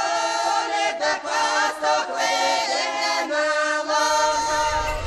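Choir singing without instruments, several voices holding long notes together as background music.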